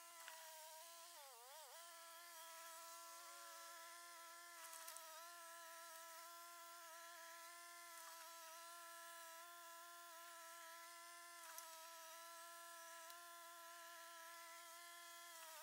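Faint, steady, high-pitched whine with a brief dip in pitch about a second and a half in, and a few faint ticks.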